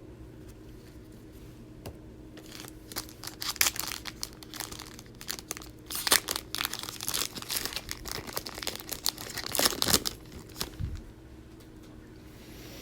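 Trading-card pack wrapper being crinkled and torn open. Irregular crackling starts about two and a half seconds in and stops after about ten seconds.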